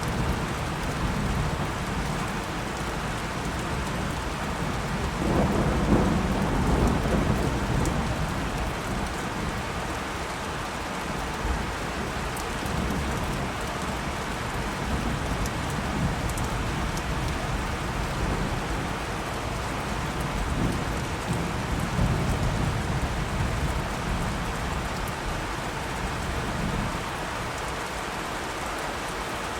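Steady rain, with rolls of thunder rumbling through it, the loudest about five to eight seconds in and fainter ones later.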